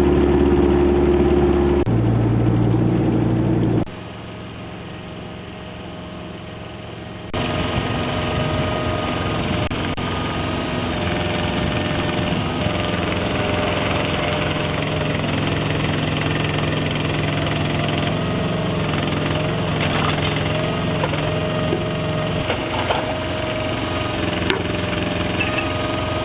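A work boat's engine running steadily. The sound changes abruptly about two seconds in, falls much quieter about four seconds in, and comes back louder about seven seconds in.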